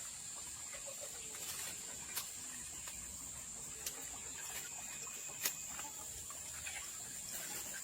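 Steady, high-pitched insect chorus, with a few sharp clicks or taps scattered through it; the loudest click comes about five and a half seconds in.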